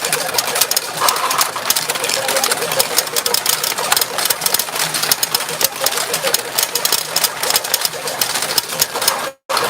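Retro pachinko machine in play: a dense, rapid clatter of steel balls rattling through the machine, with faint steady electronic tones behind it. The sound cuts out for a moment near the end.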